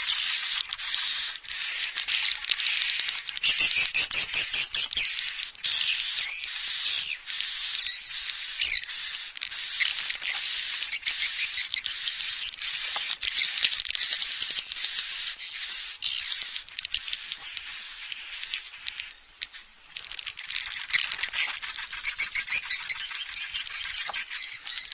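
Edible-nest swiftlet calls played as a lure sound for swiftlet farming: a continuous, busy twittering of high chirps. There are bursts of rapid, clicking trills about four seconds in and again near the end.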